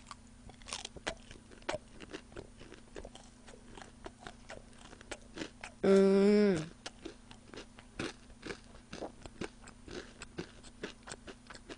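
Close-miked chewing of crispy boneless fried chicken: many small crunches and mouth clicks. About six seconds in comes a brief vocal sound from the eater, the loudest sound here.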